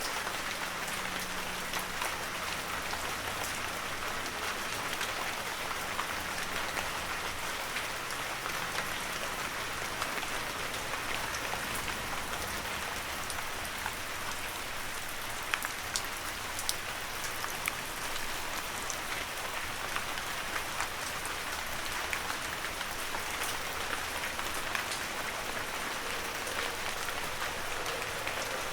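Heavy rain falling steadily, a dense even hiss with many individual drops ticking sharply on near surfaces, a few louder drop hits in the middle.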